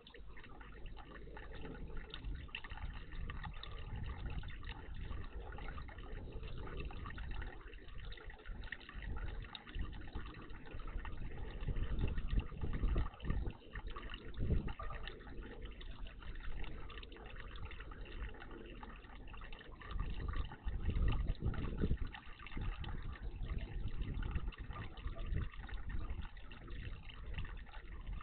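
Water splashing and trickling at a garden birdbath, steady throughout, with louder stretches about twelve and twenty seconds in.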